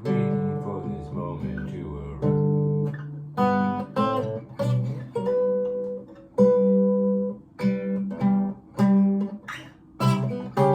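Solo acoustic guitar picked and strummed, a run of single notes and chords with short pauses between phrases.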